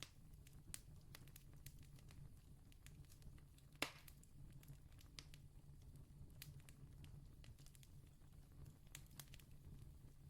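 Faint distant campfire crackling: scattered small snaps over a low steady rumble, with one louder pop about four seconds in.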